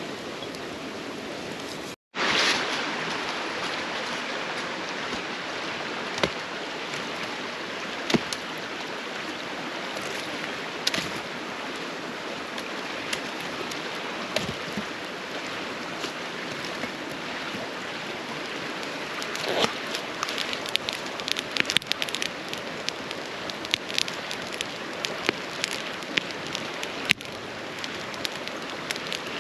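Campfire crackling under a steady hiss, with sharp pops that come thicker from about twenty seconds in; the hiss fits butter melting in a pan over the fire. A brief drop to silence about two seconds in.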